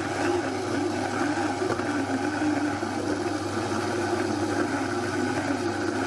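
A small electric motor running steadily with an even hum and whir, such as a kitchen appliance.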